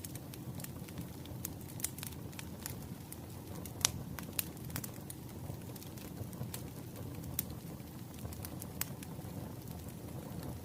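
Firewood burning, crackling with irregular sharp pops over a low steady rumble; the loudest pop comes about four seconds in.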